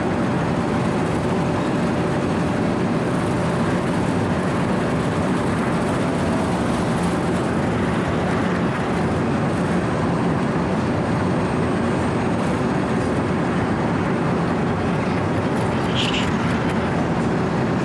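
Wirtgen W 120 CFi cold milling machine grinding asphalt, its diesel engine and carbide-toothed cutting drum making a steady, dense din. A short high chirp comes near the end.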